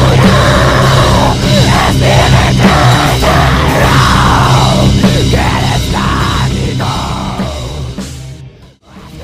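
Loud heavy rock music with a drum kit, fading away near the end.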